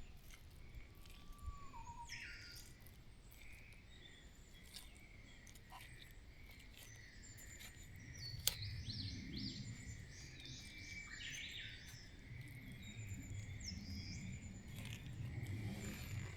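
Small woodland birds singing and chirping, several at once, with a quick run of short falling notes from about eight seconds in. A single sharp click comes about eight and a half seconds in.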